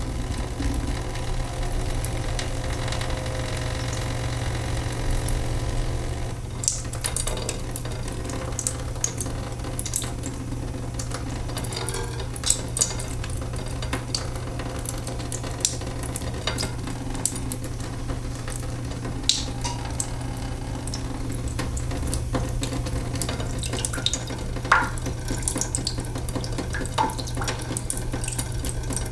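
Leaking sink: water dripping irregularly, with scattered small ticks and an occasional plinking drop, over a steady low hum.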